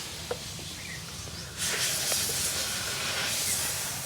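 Steady hiss of compressed air blowing. It drops back just after the start and comes on louder again about one and a half seconds in.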